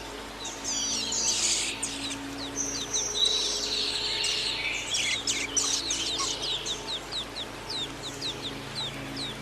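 Songbird singing: a busy jumble of varied chirps and whistles, then a run of quick short sweeping notes repeated a few times a second.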